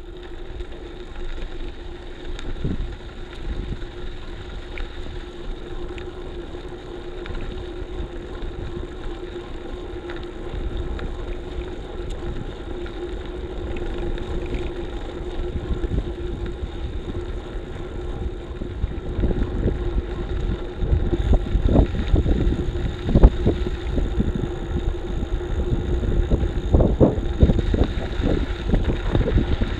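Road bicycle being ridden, recorded through a bike-mounted action camera: wind buffeting the microphone and tyre-and-road rumble over a steady hum, growing louder, with sharp jolts from bumps in the second half.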